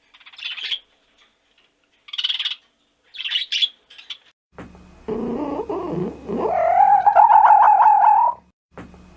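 Animal calls: three short high chirps in the first few seconds, then, about halfway through, a longer, louder wavering call that rises in pitch, over a steady low hum.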